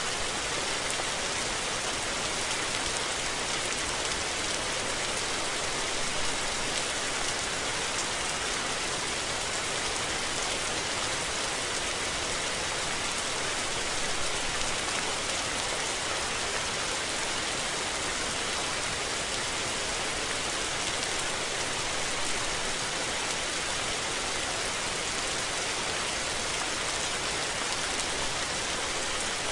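Steady rain falling and pattering on surfaces, an even hiss with scattered drop ticks and no thunder.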